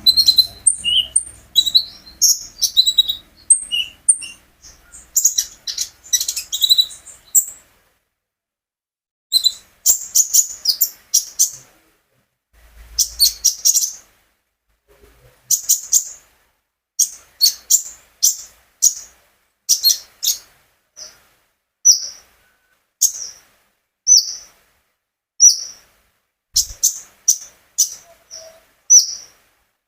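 Konin songbird calling in sharp, high chips and twitters. Its rapid twittering phrases in the first few seconds break into short bursts between pauses, then settle into single chips about once a second in the second half.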